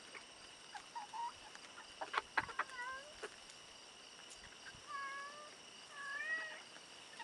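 Barn cat meowing several times, each call a short rise-and-fall. A few sharp taps come about two seconds in.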